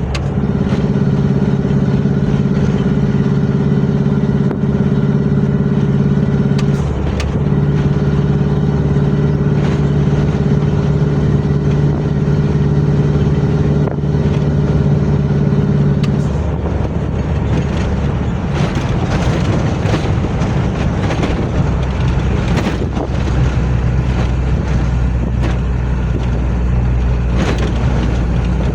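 Isuzu FRR90 truck's diesel engine running steadily at raised revs, with a brief dip about seven seconds in. About halfway through it drops to a lower, rougher idle, with scattered clicks and knocks.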